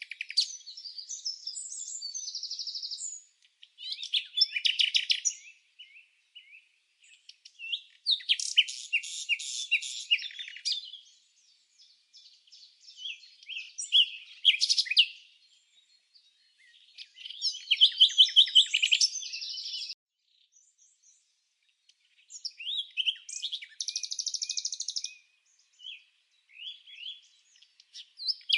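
Songbird singing in bouts of rapid, high chirps and trills, each lasting a second or three, with short pauses between bouts.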